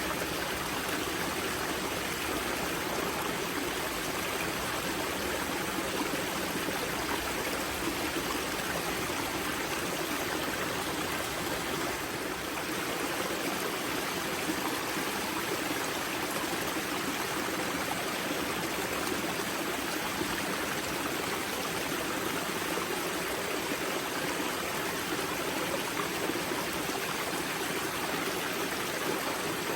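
Spring-fed mountain river flowing and splashing over rocks at its source, a steady, even rush of water.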